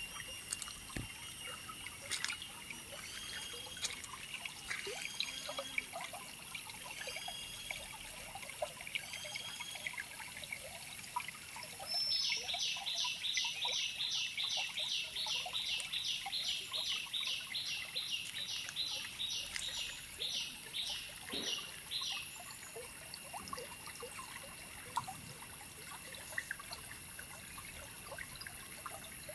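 Birds calling over a steady, high, insect-like drone. Short curved notes come about once a second at first; then, from about twelve seconds in, a loud fast run of sharp notes, about three to four a second, lasts some ten seconds. Faint trickling water sounds underneath.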